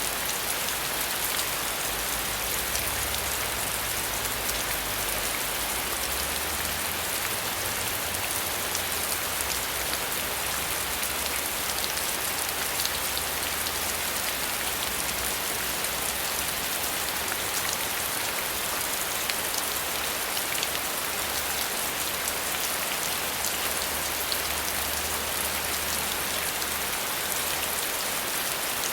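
Steady rain falling on a surface, a dense even patter of drops with fine individual drop ticks. A faint low rumble comes and goes underneath.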